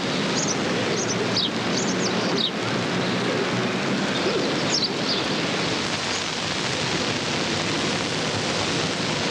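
Birds chirping in short, falling notes over a steady hiss; the chirps come every second or so and die away about halfway through, leaving only the hiss.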